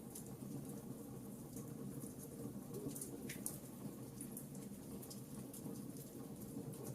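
Campfire of burning wood: a steady low rumble of flames, with scattered sharp crackles and pops at irregular intervals.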